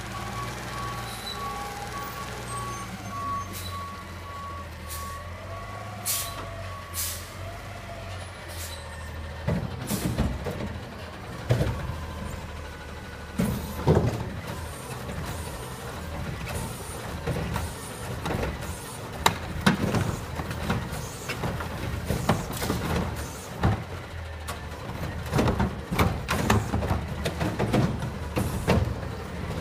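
Garbage truck's diesel engine running with its reversing alarm beeping for the first several seconds. From about a third of the way in come repeated loud clanks and bangs over the engine.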